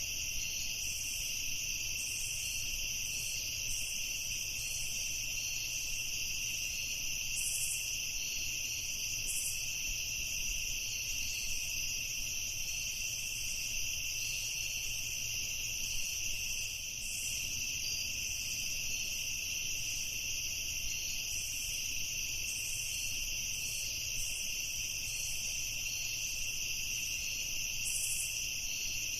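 Night-time chorus of crickets trilling steadily without a break, with short higher chirps scattered irregularly through it.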